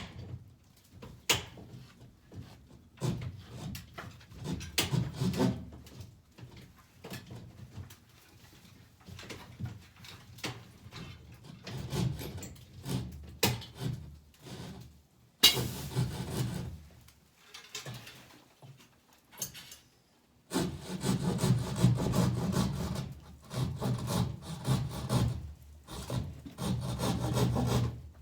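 Hand saw cutting the ceiling board for the air conditioner's opening in rasping back-and-forth strokes. The strokes come in short spells at first, with a sharp knock at the start and another about halfway, then run steady and fast for the last third.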